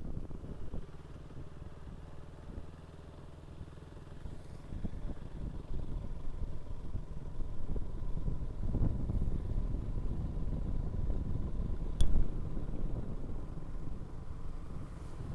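Motorcycle engine running underway, growing louder after a few seconds as it picks up. A single sharp click about twelve seconds in.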